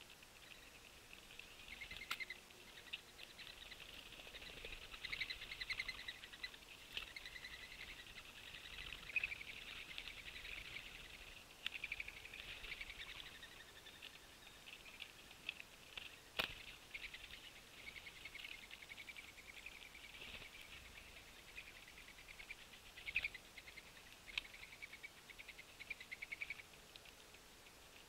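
Small birds chipping and chattering in a dense, fast stream of high notes, with a few sharp taps or clicks, the loudest about two-thirds of the way through.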